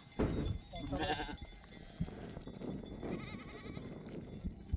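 Sheep in a herded flock bleating: a short bleat about a second in and a longer, quavering bleat about three seconds in.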